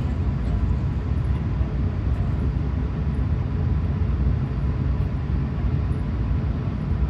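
Steady low rumble of an Airbus A380-800's engines and airflow heard inside the passenger cabin, with a faint steady tone running through it.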